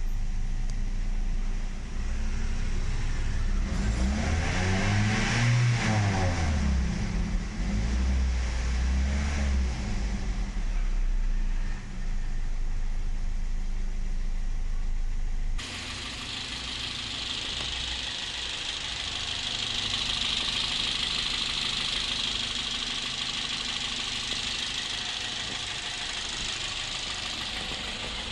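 Toyota Yaris four-cylinder petrol engine idling, revved up twice and let fall back to idle, with the engine freshly decarbonised. About halfway through the sound cuts abruptly to a quieter, steady idle with a hiss over it.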